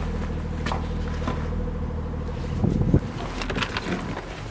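Range Rover Sport's 3.0 TDV6 turbo-diesel engine idling with a steady low hum, which cuts off abruptly about two-thirds of the way through. A few light clicks sound over it.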